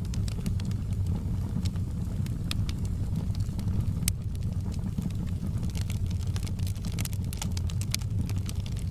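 Fireplace fire crackling: frequent sharp pops and snaps over a steady low rumble, with one louder pop about four seconds in.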